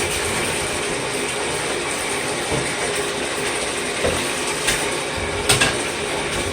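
Steady rush of water with scraping as dirty vacuum cleaner parts are washed in a tub, with a few sharp knocks near the end.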